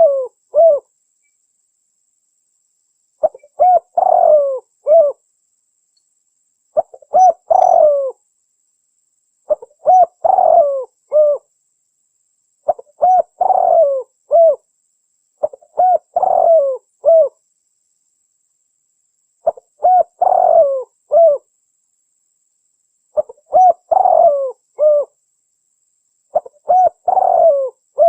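Spotted dove (tekukur) cooing: a phrase of several short coos, repeated about every three seconds, nine times in all.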